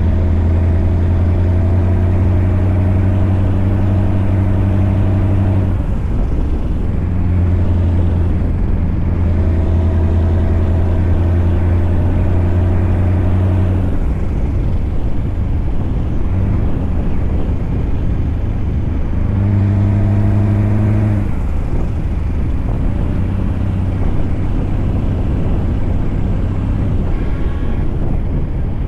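Scania V8 truck engine running on the road, a steady low drone that fades and returns in stretches over continuous road noise.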